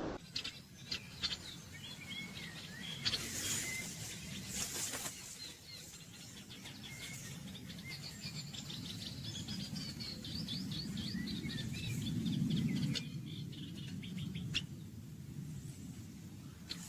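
Several birds chirping and calling, with short whistled notes and quick runs of high ticking notes, over a steady low rumble of forest ambience.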